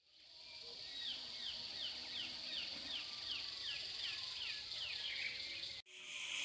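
Outdoor rural ambience: a bird repeats a short falling whistle about two to three times a second over a steady high hiss. Near the end the sound cuts out for an instant and a louder steady high hiss takes over.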